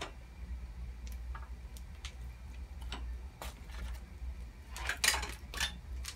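Ridgid universal miter saw stand being folded up: scattered light clicks and knocks from its metal frame and latches, with a louder short clatter about five seconds in.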